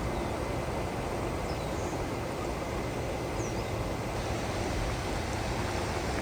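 Steady rush of a creek's flowing water, with a couple of faint bird chirps.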